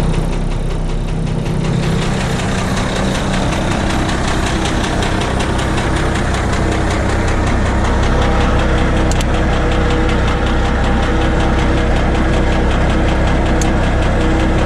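International school bus diesel engine idling steadily after a cold start; its tone shifts about two seconds in.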